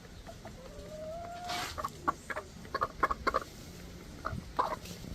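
Birds calling: a drawn-out rising note about a second in, then a quick run of short sharp calls, and a few more near the end.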